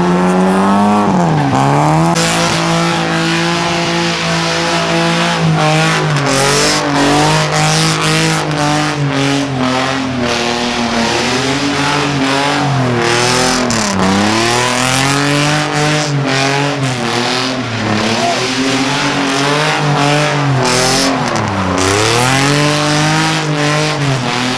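Car engine held at high revs in a one-wheel burnout, the spinning tire screeching. The revs drop sharply and climb back a few times.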